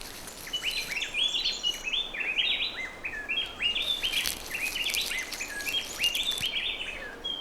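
Birds chirping: many short, high hooked notes repeated quickly in clusters over a faint steady hiss of forest background.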